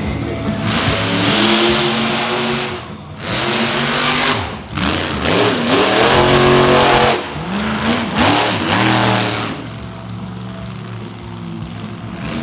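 Monster truck engine revving hard in repeated bursts, its pitch rising and falling, then settling to a quieter steady running for the last couple of seconds.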